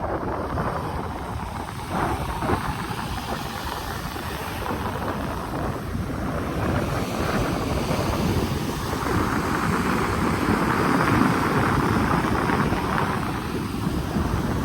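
Wind buffeting the microphone over the sea surf washing ashore, a continuous rushing noise that swells for a few seconds past the middle.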